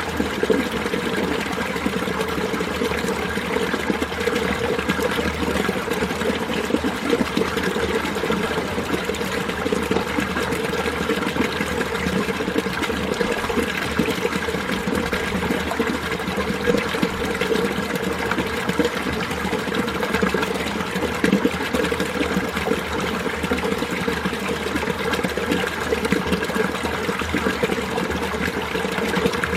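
Winter mountain stream flowing steadily, a continuous rush of water with no breaks or changes.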